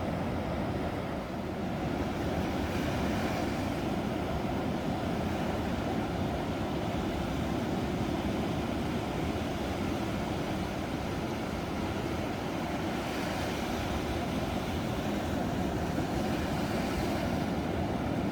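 Ocean surf: a steady, deep wash of breaking waves, with a brighter hiss swelling about three seconds in and again from about thirteen to seventeen seconds.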